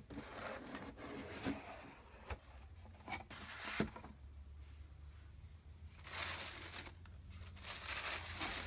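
Paper and packaging rustling and crinkling as items are handled and unpacked from a box, with a few sharp clicks and knocks, and longer stretches of rustling in the second half.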